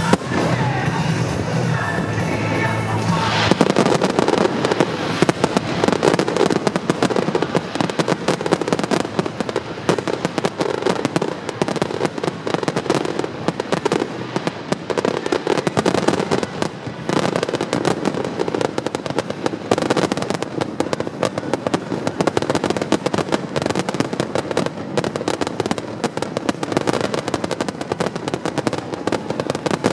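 Fireworks going off in a dense, continuous barrage of bangs and crackles. Music plays over the first three and a half seconds, then stops.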